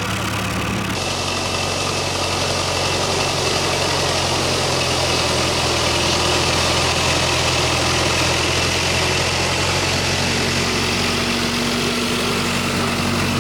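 A vehicle engine running steadily with a low, even hum over broad running noise; its pitch shifts slightly about a second in.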